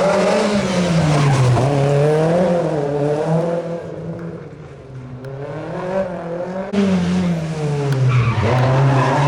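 Rally car engine revving hard, its pitch rising and falling over and over as the driver works the throttle and gears, with tyre noise under it. The engine fades away about halfway through, then the sound comes back loud all at once near the end, revving again.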